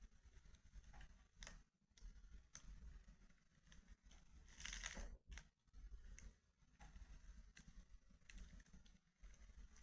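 Faint wood fire crackling, with sparse single pops and a louder cluster of crackles about five seconds in.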